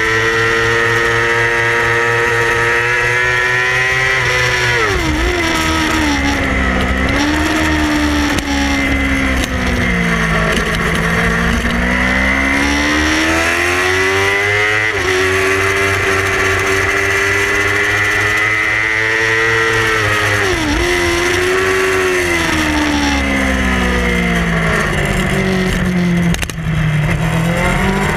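Yamaha R6 inline-four race engine at high revs. Twice the pitch drops in steps as the rider brakes and downshifts for corners, then climbs steadily as the bike accelerates out.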